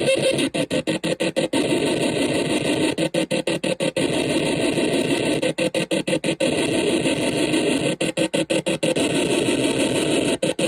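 Experimental electronic noise machine (OM-BOT Psychic Cell) putting out a dense, harsh noise drone. In several short spells the drone is chopped on and off rapidly, about eight times a second.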